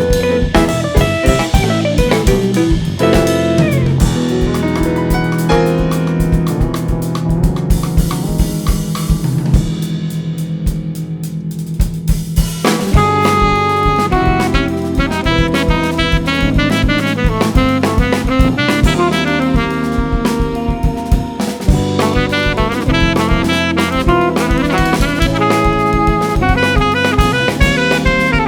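Live jazz-fusion band playing: drum kit with saxophone and bass. The drums drop out for a few seconds in the middle, leaving held low notes, then the full band comes back in.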